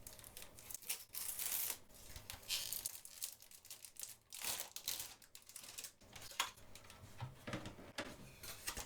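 Plastic shrink wrap being torn open and peeled off a CD album case, with irregular crinkling and tearing rustles.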